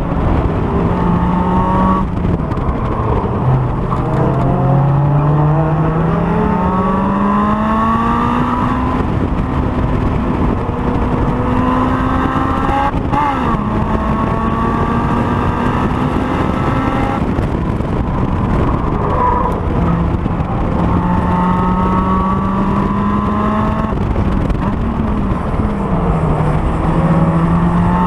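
Honda S2000 engine under hard driving on a race circuit, its pitch climbing in long rises under acceleration and dropping sharply several times at gear changes or braking, over steady wind and road noise.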